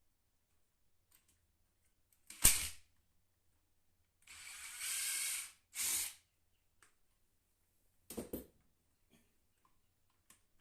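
Bidet attachment and toilet-seat parts being handled and fitted: a sharp knock a couple of seconds in, then a rustling scrape lasting about a second and a half and a shorter one, and a pair of clicks later.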